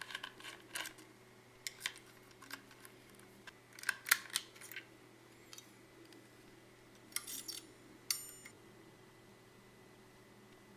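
Scattered clicks, taps and short scrapes of small metal parts and tools being handled while working on a hard drive, loudest in a cluster about four seconds in, with a brief ringing metallic tap around eight seconds in.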